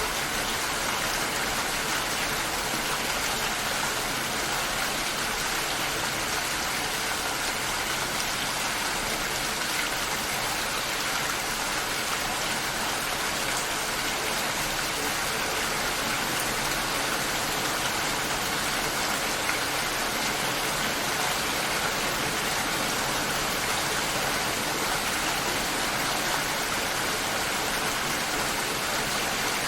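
Steady rain shower, an even hiss of rain falling and pattering on surfaces, with no gusts or breaks.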